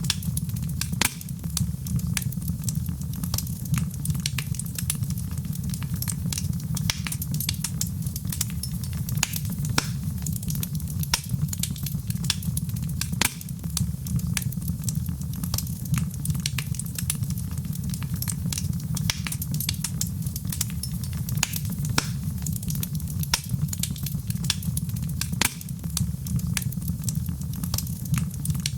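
Fireplace fire crackling: frequent sharp pops and snaps, several a second, over a steady low rumble of the burning flames.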